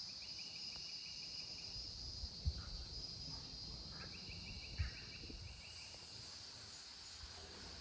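Insect chorus buzzing steadily at several high pitches, with a rapid pulsed trill that comes twice for about a second and a half each and starts again at the end. Two soft low thumps come a little over two seconds apart near the middle.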